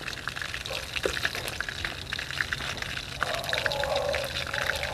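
Chicken pieces frying in hot oil in a wok: a steady sizzle with many small crackling pops.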